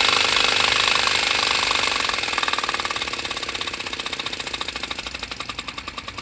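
Compressed-air-driven rack-and-pinion piston engine prototype running with a rapid, even mechanical beat that gradually slows and grows quieter. Its single strokes become separately audible near the end as the air pressure is brought down.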